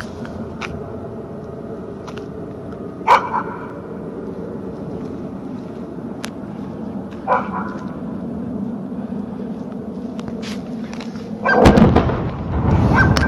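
Outdoor recording with a steady background rumble and hum, broken by a few short sharp sounds like a dog barking, and a louder burst of sound near the end.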